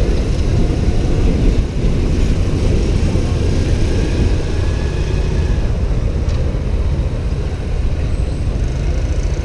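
Steady low rumble of riding on a motorbike through city traffic, with engine and road noise.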